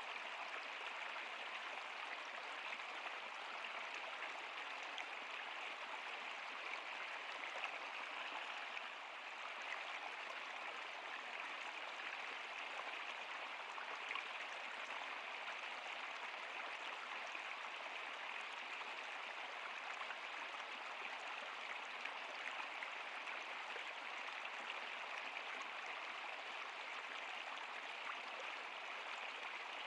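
Stream water flowing and splashing steadily, a continuous bright rush without pauses.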